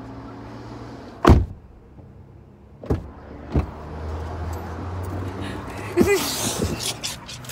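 Car engine idling, heard inside the cabin as a low steady hum. Sharp knocks come about a second in and twice around three seconds in; near the end there is a rustle and a brief vocal sound as people move close to the phone.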